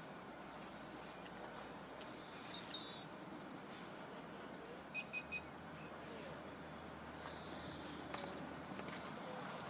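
Faint outdoor lakeside ambience with a few short, high bird chirps, including three quick ones about halfway.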